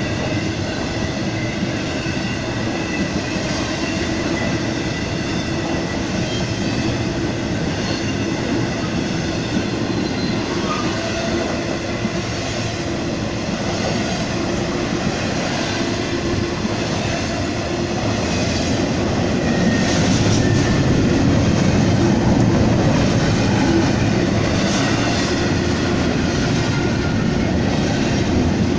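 A train rolling steadily past at close range: steel wheels running over the rails with a continuous rumble and clatter, getting a little louder about two-thirds of the way through.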